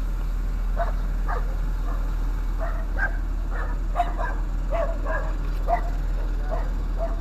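A dog barking and yipping over and over in short, sharp calls, roughly two a second, over a steady low hum.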